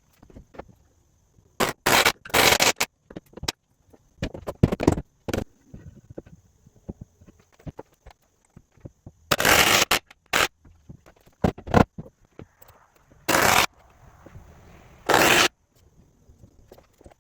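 Irregular bursts of carpentry noise: short loud knocks and scraping as wooden braces are nailed in between floor joists.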